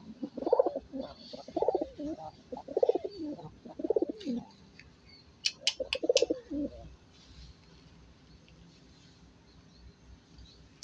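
Pigeons cooing: a run of low, repeated coos over the first four seconds or so, then a few sharp clicks and one more coo about six seconds in.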